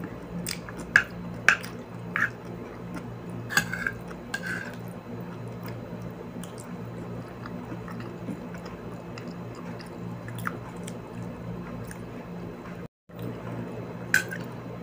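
Close-miked eating: chewing and wet mouth noises, with scattered short spoon clicks on the plastic food tray, over a steady low hum.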